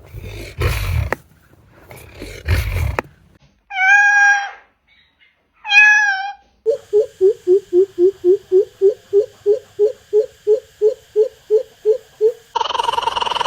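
Unusual bird calls in succession: first a few harsh, noisy blasts, then two drawn-out, wavering cat-like calls, then a fast run of about three short notes a second for several seconds. Another call starts near the end.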